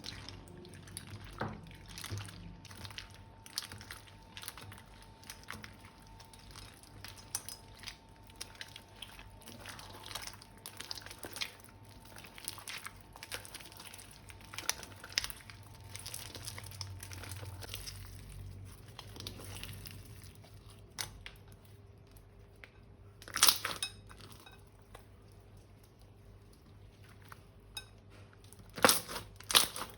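Crinkling, crunching and clicking from hands-on slime making: plastic piping bags and balloons being handled, and slime with crunchy beads being mixed. There are two louder crackles, one about two-thirds of the way in and one near the end.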